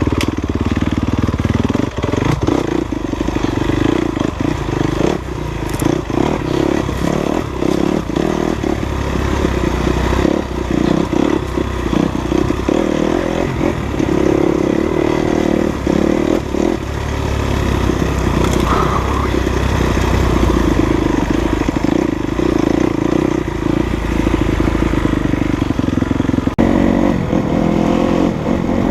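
Enduro dirt bike engine running steadily while riding a rough trail, with frequent knocks and rattles from the bike over uneven ground.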